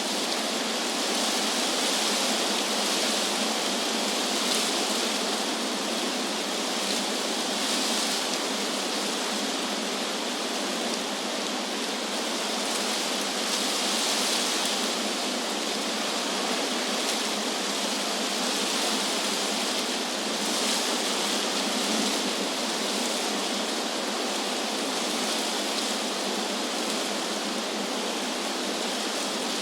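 Wind rustling through tree leaves, a steady hiss that swells and eases gently every few seconds.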